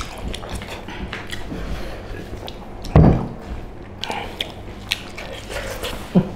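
Close-up eating sounds: chewing and lip smacking as rice and curry are eaten by hand, a string of small wet clicks. A short, louder low thump about three seconds in.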